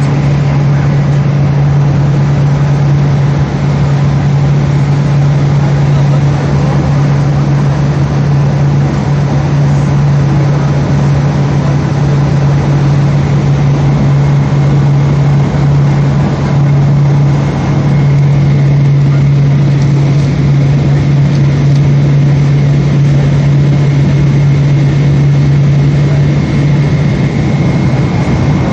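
Boeing 777 cabin noise in flight: a steady drone of engines and rushing air with a strong, even low hum.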